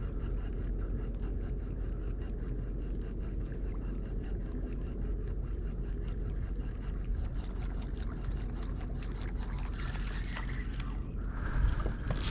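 Steady wind and water noise around a kayak, with faint ticking throughout and a brief louder rush near the end.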